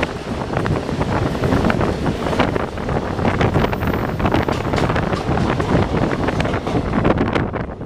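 Passenger train running, heard from on board: a steady rush of wind on the microphone over the rumble of the wheels, with many short sharp clicks and knocks from the wheels on the rails.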